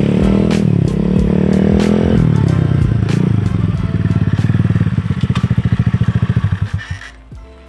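Chinese 110cc pit bike's small single-cylinder engine revving: the pitch climbs for about two seconds, falls back, then holds with a pulsing beat before dropping away near the end. Background music plays underneath.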